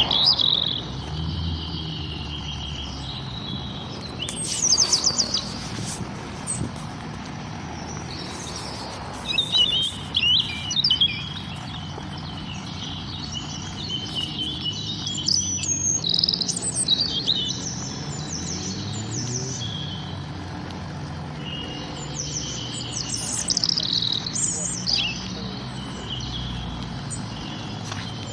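Several songbirds chirping and singing, with loud clusters of quick high trills every few seconds, over a steady low background rumble.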